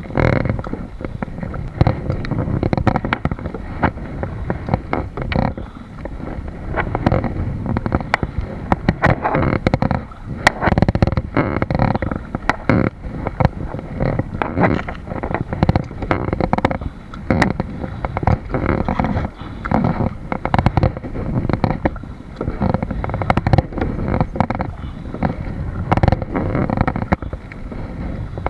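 Muffled, continuous rumbling from a kayak on open water, broken by many irregular knocks and splashes, with wind buffeting the microphone.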